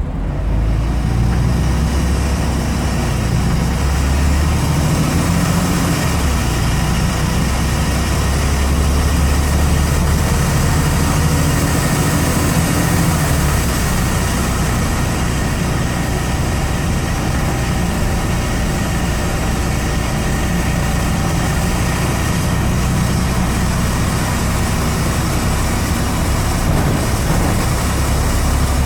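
Scania N94UD double-decker bus's rear-mounted diesel engine running steadily, heard from the back seat inside the cabin as a loud low drone.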